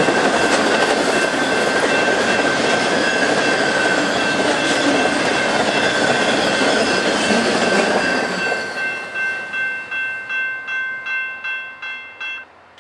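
Intermodal freight train of trailers on flatcars rolling past: a steady rush of wheels on rail with a few high, steady ringing tones from the wheels. About two-thirds in, the last cars' wheels click over the rail at about two beats a second, fading, until the sound stops sharply near the end as the end of the train passes.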